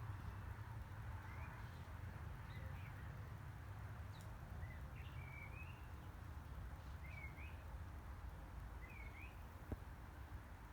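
Faint songbird calls: short chirps and little twittering phrases every second or so, over a steady low rumble, with a single sharp click near the end.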